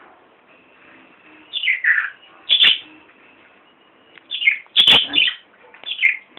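Pet parrot calling: a run of short, sharp squawks, each falling in pitch, coming in two bunches with pauses between.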